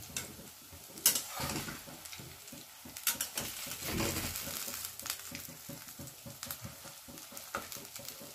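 Small prawn fritters of gram-flour batter sizzling and crackling in hot oil in a metal kadai. A flat metal spatula scrapes and knocks against the pan as it moves them, with the sharpest knocks about a second in and again around three to four seconds in.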